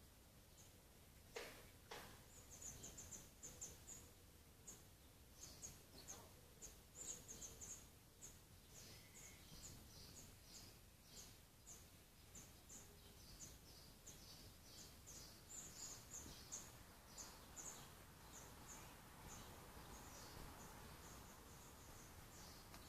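Faint, high, short bird chirps repeating irregularly, several a second, over a low outdoor hiss. Two sharp knocks come about a second and a half in.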